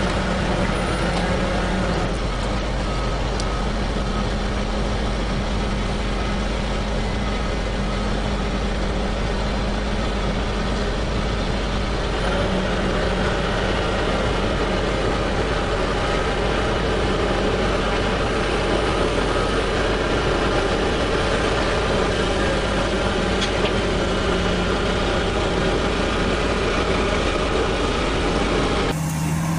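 Heavy machine's engine running steadily, a dense even rumble with a faint hum of engine tones, cut off abruptly near the end.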